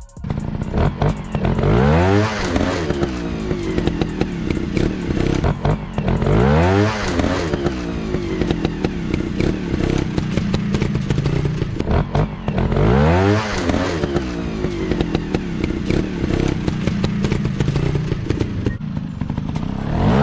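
Dirt bike engines running off-road, the revs rising sharply four times, a few seconds apart, over a steady engine drone. Many sharp clicks and knocks run through it.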